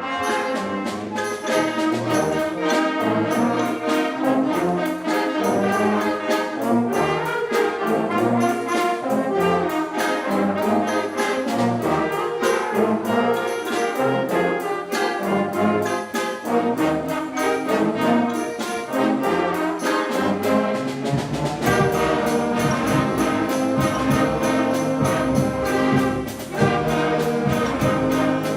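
Fifth- and sixth-grade school concert band playing, with brass, woodwinds and percussion keeping a steady beat. About 21 seconds in, the low instruments come in and the band settles into fuller held chords.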